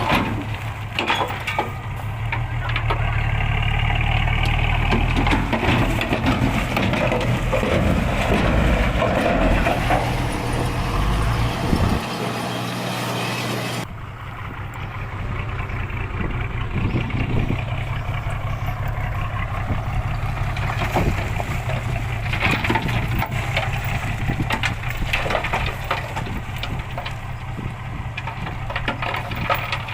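Dump truck's diesel engine running, with a coarse crushing noise over it. The sound changes abruptly about halfway through, as if at a cut, to a slightly quieter engine sound.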